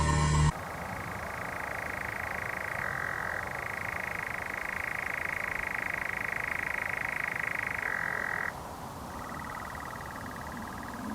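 A bird's call from a field recording: a continuous fast-pulsed, croak-like sound that steps down in loudness about eight and a half seconds in.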